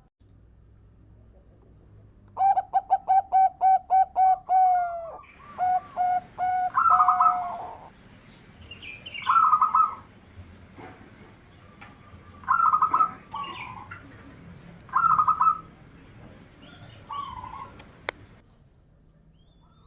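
Zebra dove (perkutut) singing: a quick staccato run of about a dozen cooing notes, then more notes, then short two-part coo phrases repeated every few seconds.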